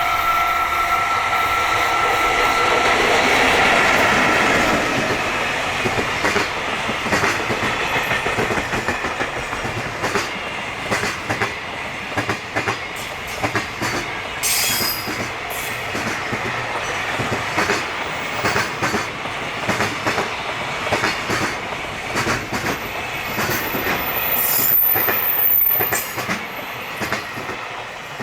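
Freight train hauled by an EF65 electric locomotive passing at speed. A steady high tone sounds for the first three seconds. Then the wagons' wheels clack over the rail joints in a quick, uneven run of clicks, fading near the end.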